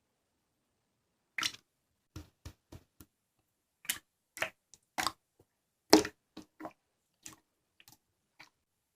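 Slime being squished and poked by hand: a string of short, irregular wet clicks and pops with silent gaps between them, the loudest about six seconds in.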